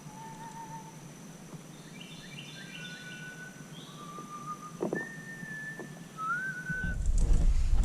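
A series of clear whistled notes, each held steady for about half a second to a second at different pitches, with a quick cluster of shorter, higher notes a couple of seconds in. A faint steady high tone runs underneath, and a louder low rushing noise comes in about a second before the end.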